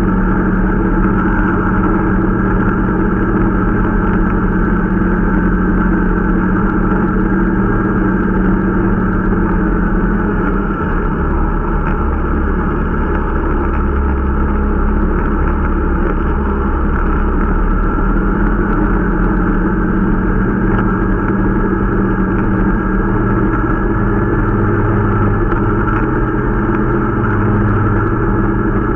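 Irbis Dingo T125 snowmobile's small single-cylinder engine running steadily under way during its break-in ride, the engine note shifting slightly about ten seconds in.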